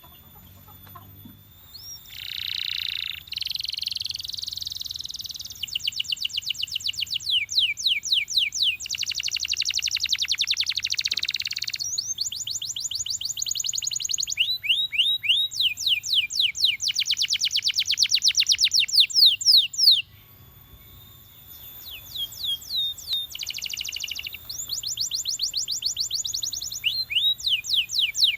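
Canary singing: phrases of fast trills made of rapidly repeated high notes and runs of quick falling notes, starting a couple of seconds in and breaking off briefly about two-thirds through.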